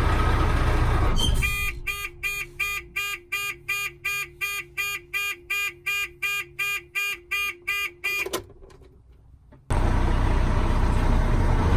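Dennis Sabre fire engine's cab warning beeper sounding rapidly, about three beeps a second with the pitch stepping between two tones, for about seven seconds. Running truck noise comes before it, and after a short near-silence the loud steady running noise starts again suddenly, the sound the crew calls really dodgy.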